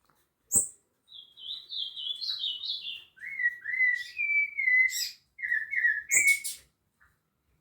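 Rufous-bellied thrush (sabiá-laranjeira) singing: a phrase of quick repeated down-sliding whistled notes, a higher series first and then a lower one. A sharp click comes about half a second in and another near the end of the phrase.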